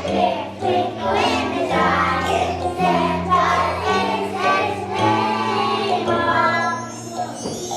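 A choir of young children singing a holiday song over an instrumental accompaniment with steady sustained bass notes. A rising high sweep enters near the end.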